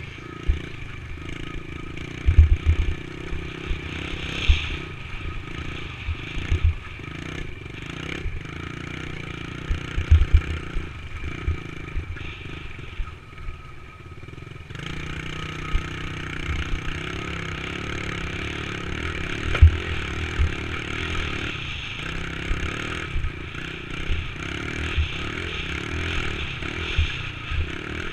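Dirt bike engine running under way, with many short low thumps through the ride. The engine drops away briefly about halfway through, then picks back up and holds steadier.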